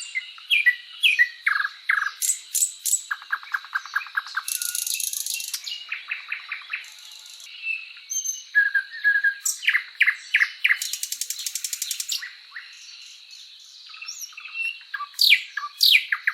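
Several birds singing and calling at once: quick chirps, short down-slurred notes and rapid trills, overlapping throughout. A few short, high buzzy bursts are mixed in.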